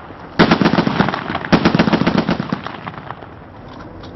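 Two long bursts of rapid automatic weapon fire, each about a second long, one straight after the other, with a few faint single shots near the end.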